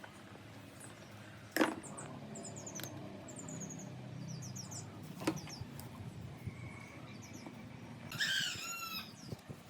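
Small birds chirping in short high strokes, with a louder bird call near the end, over a low steady hum. Two sharp clicks or knocks stand out, one about a second and a half in and one about five seconds in.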